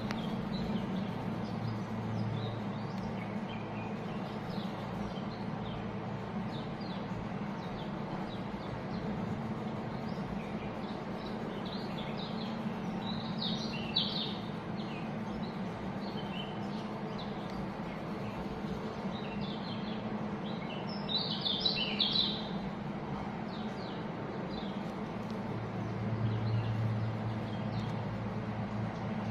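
A flock of white-eyes (pleci) chirping: many short, high calls overlapping throughout, thickening into two louder bursts of chatter about halfway through and again about three quarters of the way in. A steady low hum runs underneath.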